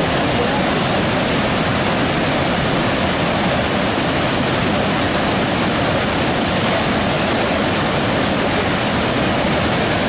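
Cachoeira de Emas waterfall on the Mogi-Guaçu River, its falling water rushing loudly and steadily.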